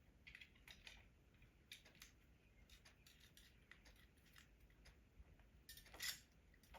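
Faint, scattered clicks and light scraping of small metal hardware being handled, likely hose-clamp saddle clamps and wire being worked by hand, with one sharper click about six seconds in.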